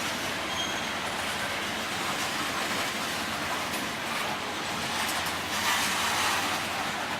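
A long freight train of boxcars rolling past, its wheels on the rails making a steady noise that swells slightly about six seconds in.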